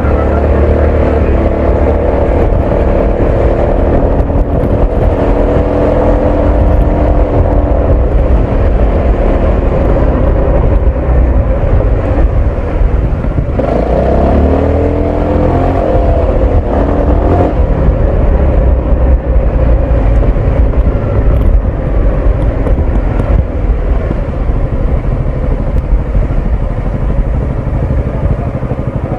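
Honda ADV 350 scooter's single-cylinder four-stroke engine and exhaust running through city riding, its pitch shifting up and down with the throttle. About fourteen seconds in it accelerates, the pitch climbing over three or four seconds.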